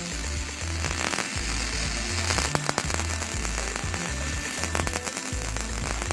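Welding arc crackling and spitting in one continuous bead on car body sheet metal, stopping near the end. Background music with a repeating bass line plays underneath.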